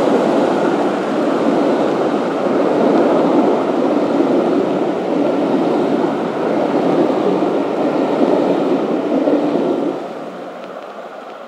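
Train of passenger coaches running past, a steady noise of wheels on rail that drops away suddenly about ten seconds in as the last coach clears, then keeps fading.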